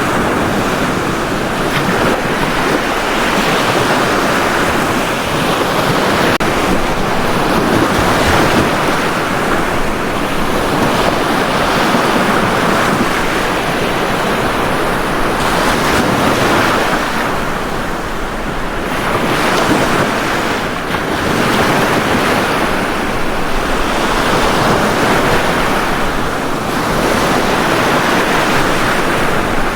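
Ocean surf breaking and washing up a beach, a steady rush of water that swells and eases every few seconds.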